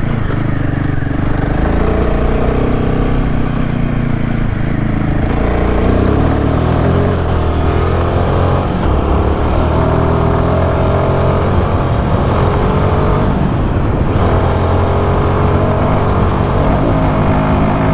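Royal Enfield Himalayan 450's single-cylinder engine running hard under load while riding, the revs rising and falling with throttle and gear changes.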